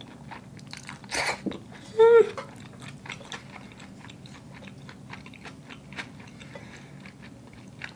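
A person chewing a mouthful of spaghetti in sauce close to the microphone: many small, wet mouth clicks, with a short breathy burst about a second in and a brief hummed "mm" about two seconds in.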